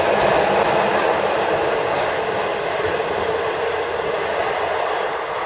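Steady running noise of a moving passenger train heard from inside the carriage: a loud, even rumble and rush of wheels on track.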